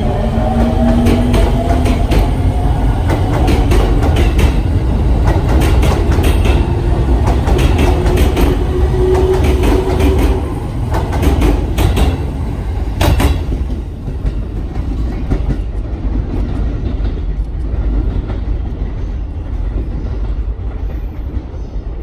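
Train running past on the tracks: a steady heavy rumble with repeated wheel clicks over rail joints and a whine rising in pitch near the start. The clicks stop and the rumble eases about 13 seconds in.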